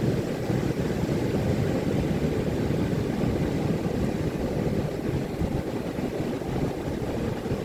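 Ocean surf breaking on a beach: a steady low rumble of waves with no separate crashes.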